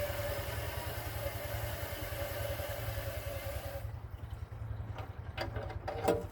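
Water from a garden hose running into a car radiator with a steady hiss, shut off about four seconds in, followed by a few light knocks. A low, steady machine rumble continues underneath.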